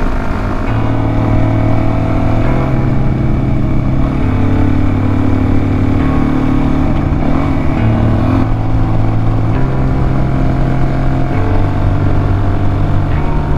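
Suzuki DR-Z400S single-cylinder four-stroke engine running while riding, its pitch holding steady and then stepping up or down every second or two.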